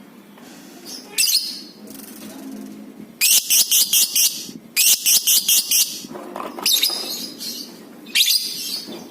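Lovebird chattering: a few short shrill chirps, then two long bursts of rapid, pulsing shrieks a few seconds in, each about a second and a half. This is the long chattering trill that keepers call 'ngekek'.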